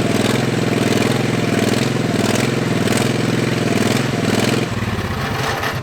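Modified lawn tractor's small engine running at high revs, a steady buzzing note; about three-quarters of the way in it drops to a lower, chugging note.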